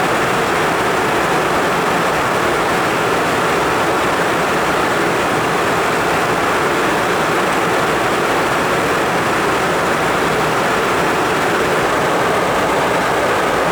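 Steady, even rushing cabin noise of an Embraer Phenom 300 business jet in flight: airflow and engine noise that stays level throughout.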